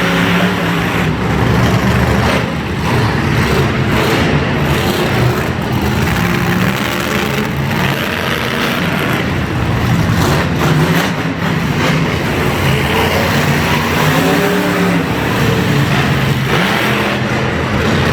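Monster truck engine running loud, revving up and falling back again and again.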